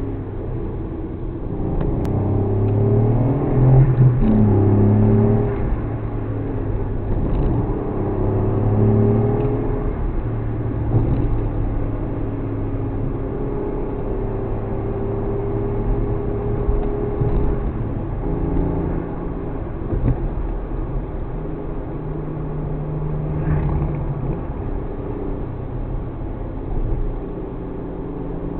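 Suzuki Alto Works HA36S's 660 cc turbocharged three-cylinder engine under way while driving. The engine note climbs under acceleration a few seconds in, then drops and settles, changing pitch again several times as the car is driven.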